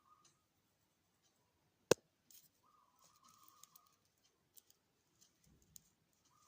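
A single sharp click about two seconds in, followed by a steady mid-pitched beep lasting just over a second, with faint scattered ticks around it.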